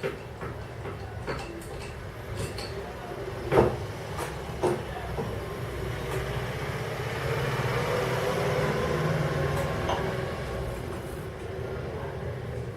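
Handling clatter: two sharp knocks about three and a half and four and a half seconds in, with scattered lighter taps, over a steady background hum.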